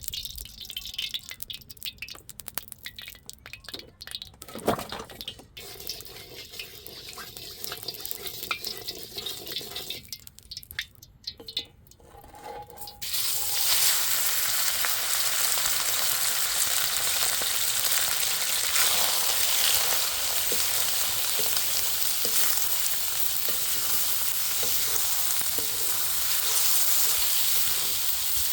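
Scattered clicks and scrapes of cooking utensils, then about 13 seconds in, a sudden loud, steady sizzle of food frying in hot oil that keeps on to the end.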